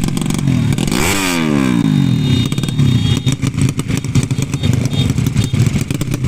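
Motorcycle engines idling with an uneven, rapid popping beat. About a second in, one motorcycle passes close by, loud and then dropping in pitch as it goes away.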